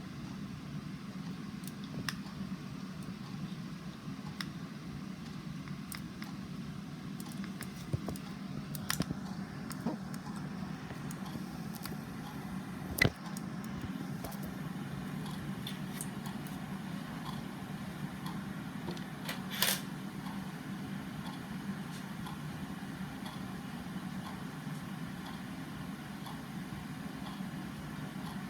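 Steady low room hum with scattered faint clicks, a sharper click about 13 seconds in and a brief rustle-like burst near 20 seconds.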